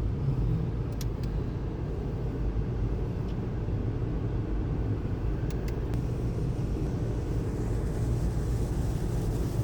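Steady low rumble heard inside a car's cabin as the car, in neutral, is drawn into an automatic car wash, with a few faint clicks.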